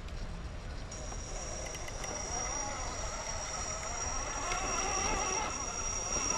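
Electric drive of an RC rock crawler running as it creeps over rock. A steady high-pitched whine comes in about a second in, and a lower motor whine wavers up and down with the throttle.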